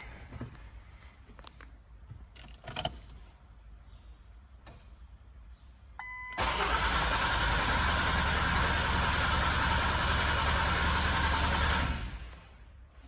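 A short electronic beep, then the Ford C-Max's engine cranking steadily for about five and a half seconds before stopping without running on, consistent with the car's no-start fault.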